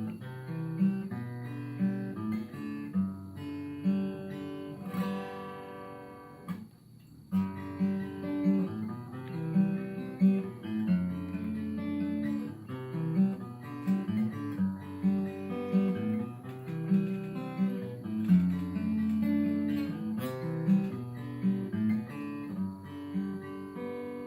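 Acoustic guitar playing picked chords and single notes in a steady rhythm, with a brief break about seven seconds in.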